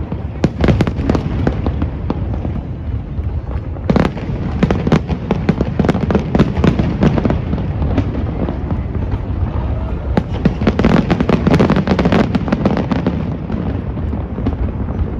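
Fireworks bursting in a dense barrage of bangs and crackles over a steady rumble, heaviest about four seconds in and again between ten and thirteen seconds.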